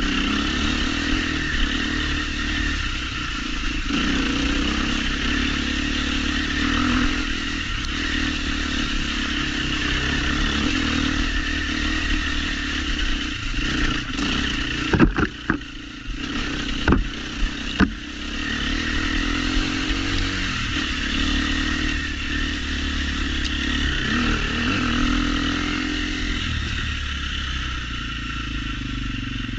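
Trail motorcycle engine running steadily while riding along a trail. About halfway through, the engine drops back briefly and a handful of sharp knocks and clatters come through.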